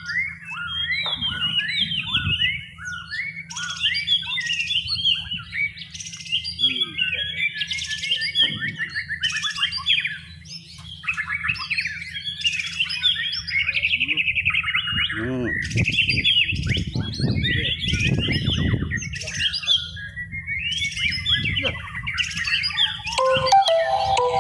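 Young white-rumped shama singing a long, unbroken run of rapid, varied whistles and chattering phrases over a steady low hum.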